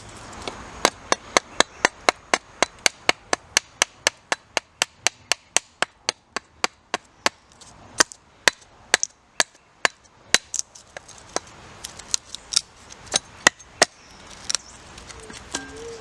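Chopping: a blade striking wood in a fast, even series of sharp chops, about three to four a second, turning sparser and irregular in the second half and stopping near the end.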